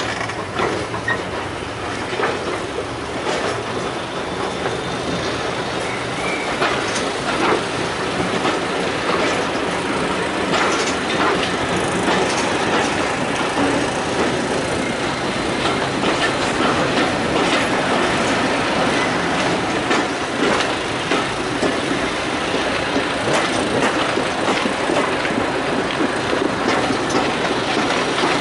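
Heritage train running along the line, its wheels clicking over the rail joints in a steady run of clicks over a continuous rumble that grows a little louder over the first few seconds.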